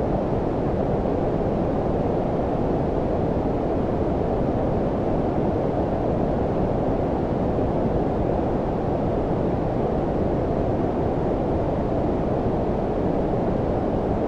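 Steady low-frequency noise of the brown-noise kind: an even, deep hiss with most of its weight below about 1 kHz and little treble, unchanging throughout.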